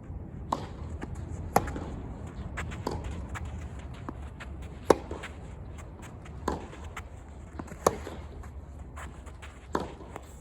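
Tennis ball being struck by rackets and bouncing on the court: a string of sharp pops at uneven intervals, the loudest three about 1.5, 5 and 8 seconds in, over a steady low hum.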